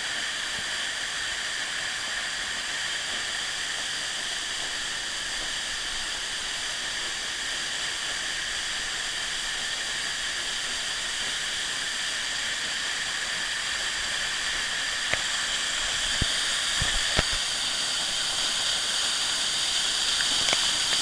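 Steady rushing hiss of a waterfall, growing a little louder near the end, with a few short knocks in the last few seconds.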